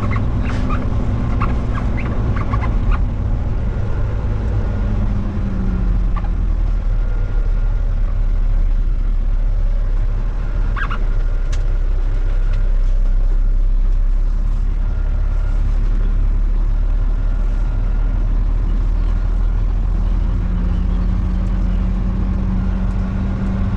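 Semi truck's diesel engine running steadily at low speed while the truck turns around, heard as a low drone. There are a few light clicks in the first few seconds.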